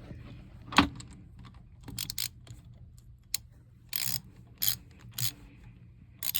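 Irregular metallic clicks and clinks of hand tools working on a boat engine, a dozen or so sharp ticks, some in quick little clusters, over a faint steady low hum.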